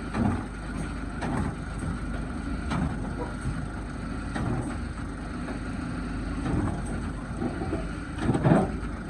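A vehicle engine running steadily, with a few short knocks and clunks, the loudest near the end.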